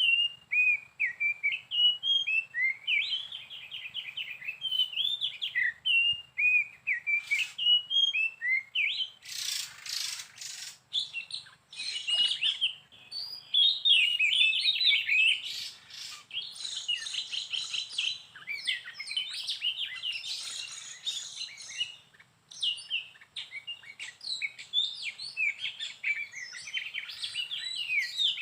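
A songbird sings a long, varied run of quick whistles, trills and chirps without pause. A short burst of rushing noise comes about ten seconds in.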